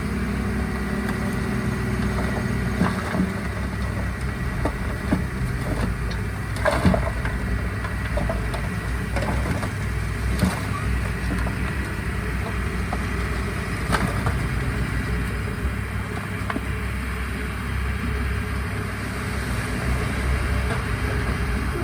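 Diesel engine of heavy earthmoving equipment running steadily, with a few short clanks and knocks scattered through it.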